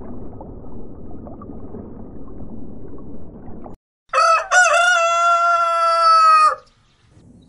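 A rooster crowing once, about four seconds in: two short notes and then a long held note that falls away at the end. Before it, a low rushing water noise underwater, which stops suddenly.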